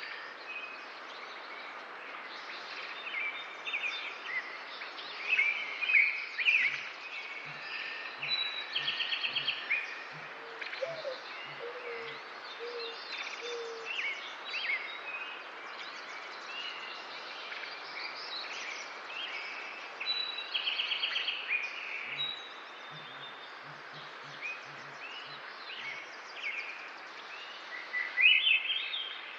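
Several birds singing and calling together over steady outdoor background noise, with a rapid trill of notes about nine seconds in and again about twenty seconds in.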